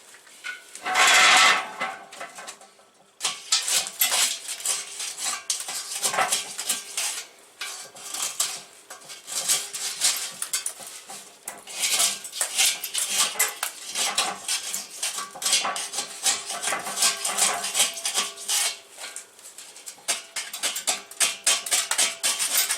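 Metal being scraped and knocked by hand to get rust off a steel part: a dense, irregular run of metallic scrapes and clinks, with a louder burst about a second in.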